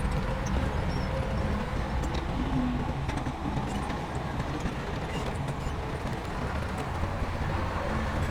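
Heavy diesel engine of earthmoving machinery running steadily, with a few faint clicks over the engine sound.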